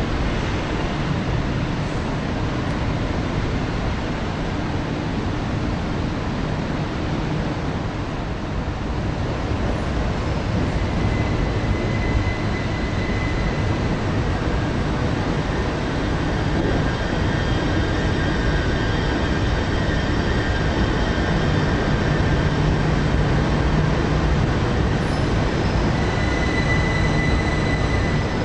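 c2c Class 357 Electrostar electric multiple unit moving through the station: a steady rolling rumble of wheels on rails. Thin high steady tones come in about ten seconds in and more of them join in the second half, and the rumble grows slightly louder.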